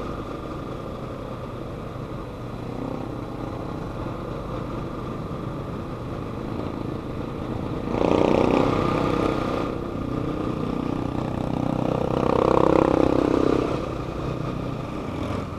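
Motorcycle engine running steadily while riding in traffic. It swells louder twice for a couple of seconds, about halfway through and again near the end.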